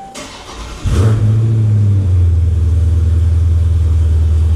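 Cold start of a 2020 Dodge Challenger Scat Pack 1320's 392 HEMI V8: the starter cranks briefly, the engine catches about a second in, and it settles into a loud, steady high idle.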